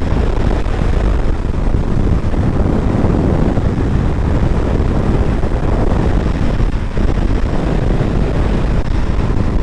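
Motorcycle riding at highway speed: steady rush of wind buffeting the microphone over engine and road noise, heaviest in the low rumble.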